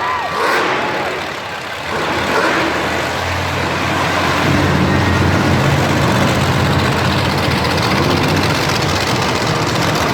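Monster truck engine running steadily, getting louder about two seconds in and holding a low, even note.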